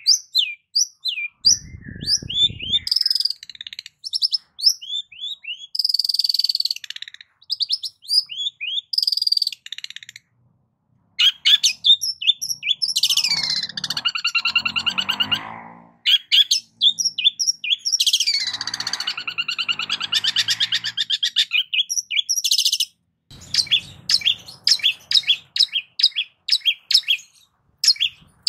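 Long-tailed shrike (cendet) singing a varied song of quick sharp chirps and trills. About halfway through come two longer harsh, raspy stretches, and near the end a run of rapid repeated notes.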